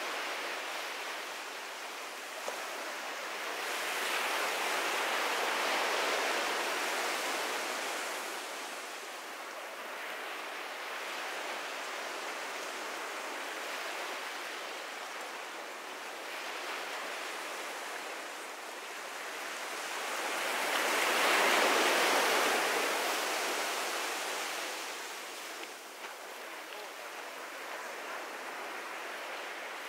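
Ocean surf breaking and washing up a sandy beach: a steady hiss of water that swells twice. The larger surge comes about two thirds of the way through.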